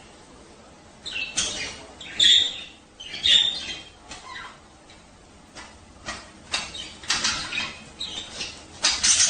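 Budgerigars chattering in a string of short, harsh squawks and squeaks, spaced out at first, then coming thick and loud near the end.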